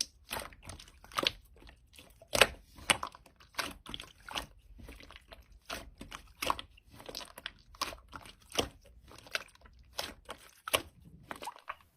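Slime being pressed and squished by hand, giving irregular sharp clicks and small pops.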